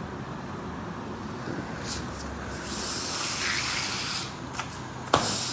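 Steady hiss of running water, swelling about three seconds in, with a sharp knock shortly before the end.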